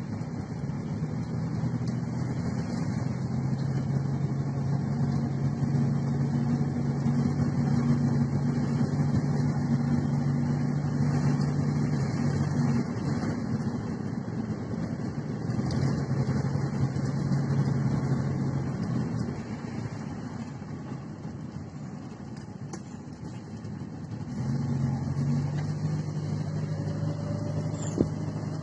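Toyota Corona sedan driving, its engine hum and road noise heard from inside the car. The hum holds steady, then drops away for a few seconds about two-thirds through as the car eases off, and picks up again, with a single click near the end.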